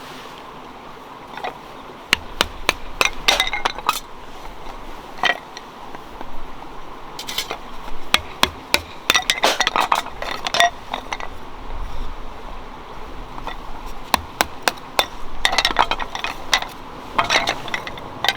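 Sharp clinks and knocks of hard objects being handled, coming in quick clusters about two seconds in, around eight to eleven seconds, and again near the end.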